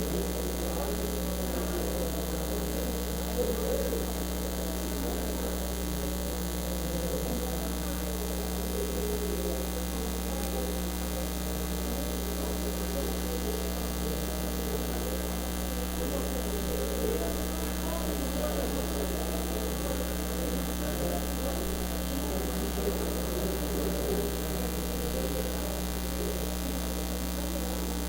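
Steady electrical mains hum in the recording, a low drone with higher overtones, under a faint indistinct murmur of voices.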